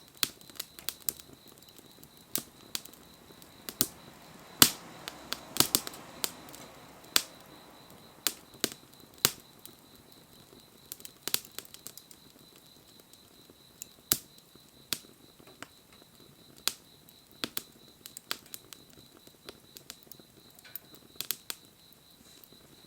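Wood bonfire crackling, with irregular sharp pops a second or so apart and a brief swell of flame noise about five seconds in. A faint steady high tone sits behind it.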